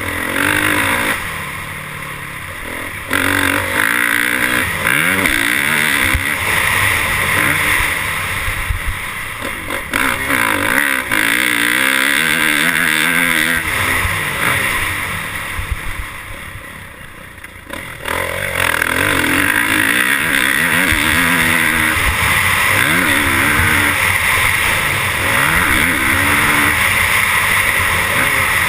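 Motocross dirt bike engines racing, revving up and down through the gears with a steady rasp, fading briefly about two thirds of the way through before the bikes come loud again.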